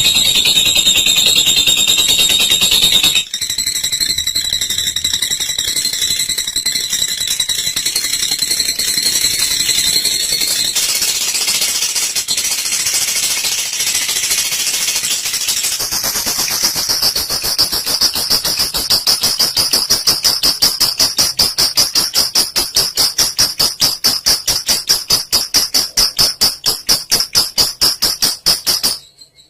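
Olive lovebird's long, rapid, high-pitched chattering trill (the 'ngekek panjang'). Its pitch steps up about halfway through, where the rapid pulses become distinct, and it cuts off just before the end.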